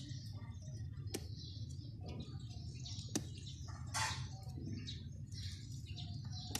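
Small birds chirping, many short calls throughout, over a steady low hum, with a couple of sharp clicks about one and three seconds in.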